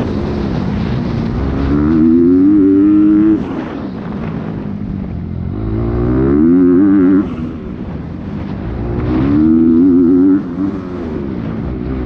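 Dirt bike engine heard from on board at race pace, revving up hard three times. Each climb in pitch cuts off sharply as the throttle is shut, then picks up again.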